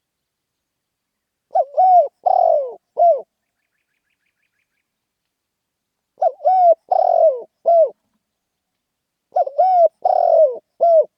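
Spotted dove cooing: three phrases of about four coos each, a few seconds apart.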